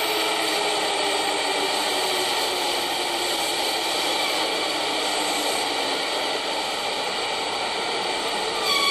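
Red Kintetsu train pulling slowly into an underground station platform: the steady rumble and hiss of the train, with a faint motor whine falling in pitch over the first few seconds as it brakes. A new steady high tone sets in near the end.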